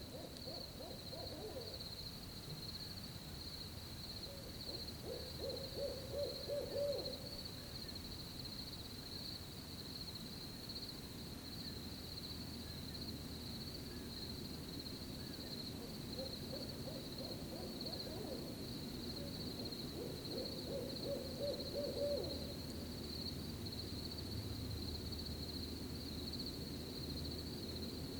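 An owl hooting in runs of hoots, one at the start and two more about fifteen seconds apart, over steady high-pitched cricket chirping.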